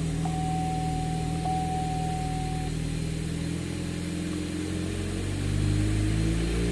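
2012 Chevrolet Cruze 1.8-litre four-cylinder engine idling steadily, then revved up a little about five seconds in, its pitch rising. A thin steady high tone sounds over the idle and stops a little under three seconds in.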